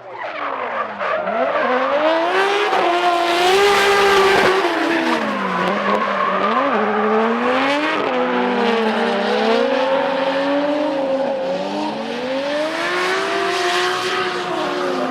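Drift cars' engines revving hard, pitch rising and falling again and again as the drivers work the throttle, over a continuous haze of tyres skidding and squealing. It fades in over the first second or two.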